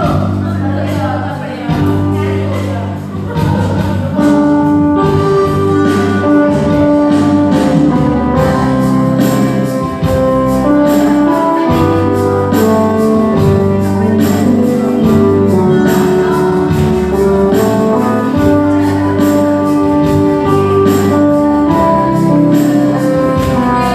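Choir singing with instrumental accompaniment: held notes over a steady beat.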